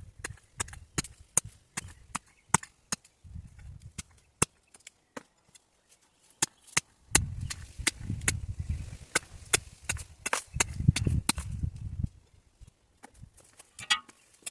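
Digging with hand tools in stony ground: many sharp, irregular clicks and knocks of a metal tool striking stones and soil, several a second, with stretches of low rumbling in between.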